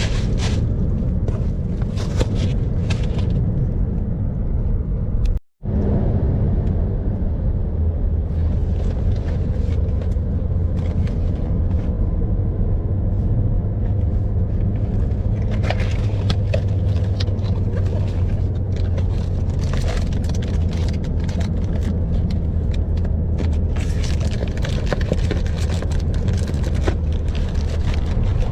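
Steady low rumble of a running vehicle, with scattered light clicks and rustles over it. There is a momentary drop-out about five and a half seconds in.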